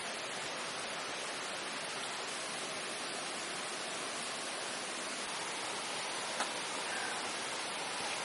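Steady, even hiss with one faint click about six and a half seconds in.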